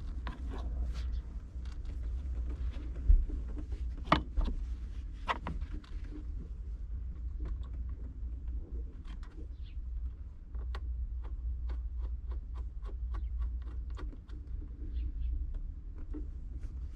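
Scattered light clicks and taps of hand work on the car's brake-line fittings and parts, over a steady low rumble, with a thump about three seconds in.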